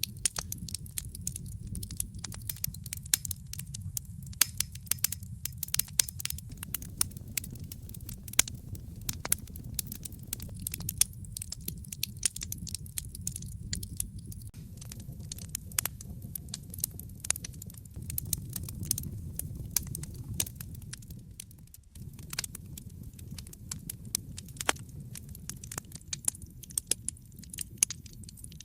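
Wood fire crackling in a fireplace: dense, irregular pops and snaps over a steady low rumble of burning flames. The low rumble drops out for a moment about three-quarters of the way through.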